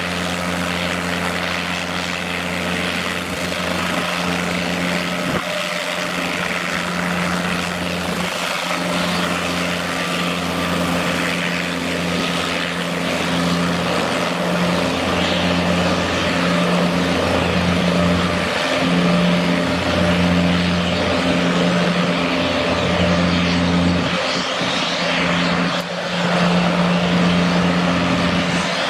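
Turbine helicopter running at the airport, a steady hum of rotor and engine with a low pulsing drone.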